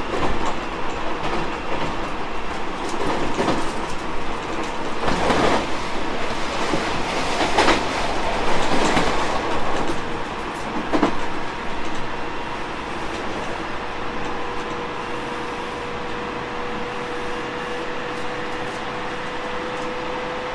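Tobu 30000 series electric train running, heard from inside a car: wheel and running noise with several sharp knocks in the first half, then steadier and a little quieter, with a faint steady hum coming in about two thirds of the way through.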